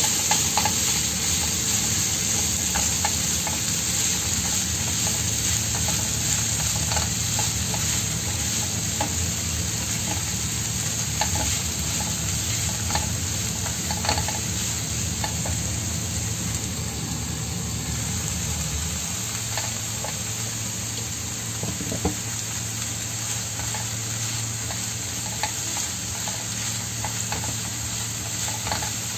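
Chopped garlic chives sizzling in oil in a non-stick frying pan, a steady hiss, while a wooden spatula stirs them, with scattered small scrapes and taps against the pan.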